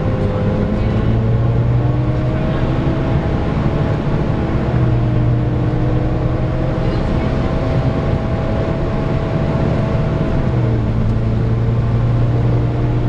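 Volvo B9TL double-decker bus heard from on board: the engine is running with the whining hum of its cooling fan, the 'hoover'. The whine's pitch drifts slowly up and then falls away about ten seconds in.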